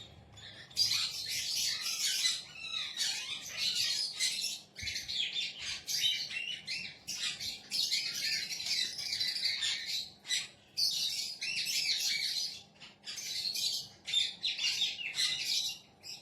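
A parrot chirping and chattering in rapid, high-pitched runs, broken by short pauses.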